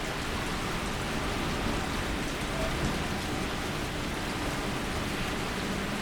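Steady rain falling during a rain storm, an even hiss of drops with no let-up.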